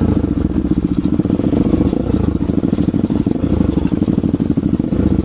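Bajaj Pulsar NS200's single-cylinder engine running through an aftermarket Akrapovic exhaust: a fast, even chain of exhaust pulses with small rises and falls in engine speed.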